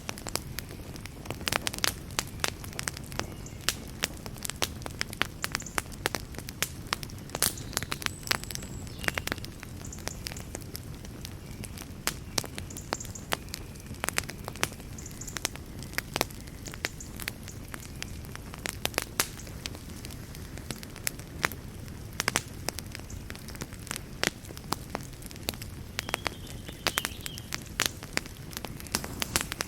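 Wood fire burning in a fireplace: a steady low rumble of flame with sharp, irregular crackles and pops from the burning wood.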